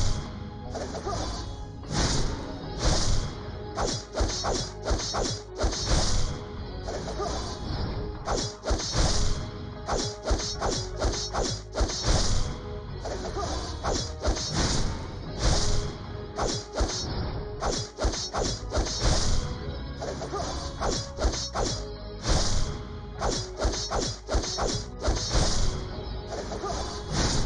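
Repeated sharp impacts, about one or two a second, with music playing underneath.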